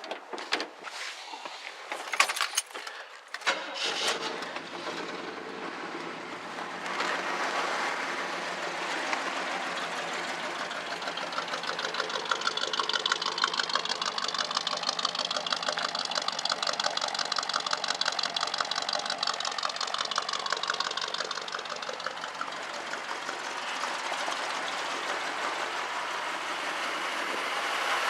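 1976 GMC Sierra's small-block 350 V8 starting about four seconds in, after a few clicks, then running smoothly. In the middle its pitch slowly climbs and settles back down, over about ten seconds.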